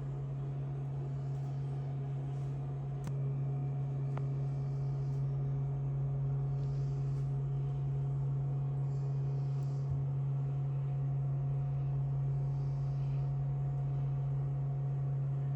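A steady low hum, with two faint clicks about three and four seconds in.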